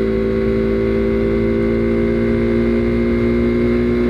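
Husqvarna Svartpilen 401's single-cylinder engine running at a steady cruising pitch while the motorcycle is ridden through a curve, over a low rush of wind and road noise.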